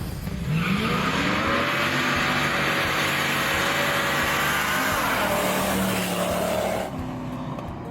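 A car engine revving, its pitch rising in the first second and then held high under a loud rushing noise, easing off about seven seconds in.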